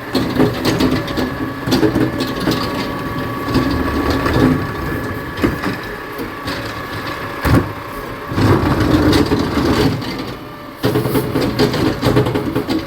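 Garbage truck compacting its load: trash crunching and cracking over the running engine, with a faint steady whine and one sharp bang about seven and a half seconds in.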